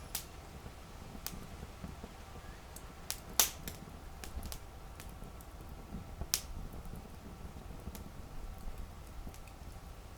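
Wood campfire crackling: scattered sharp pops and snaps from the burning wood, the loudest about three and a half seconds in and another near six seconds, over a low steady rumble.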